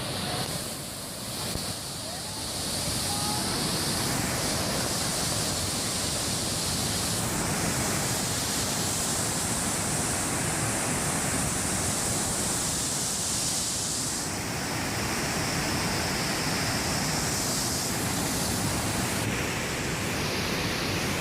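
Waterfall: a steady rush of falling water that builds up over the first couple of seconds and then holds level.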